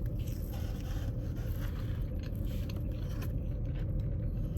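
Rustling and scraping of a mochi donut being handled in its packaging, with a few small irregular scrapes, over a steady low hum.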